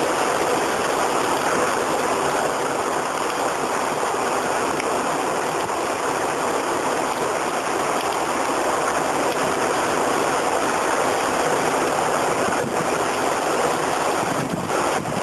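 Steady rushing noise of a squall-line thunderstorm: heavy rain and strong wind gusts. A few faint knocks of wind on the microphone come near the end.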